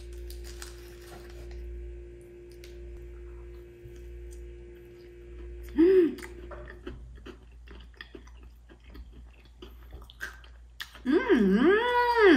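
Close-up chewing of a cream-filled doughnut with a crunchy chocolate-crisp topping: small crunches and squishy mouth sounds. A brief 'mm' comes about six seconds in, and a louder hummed 'mmm' that rises and falls in pitch comes near the end.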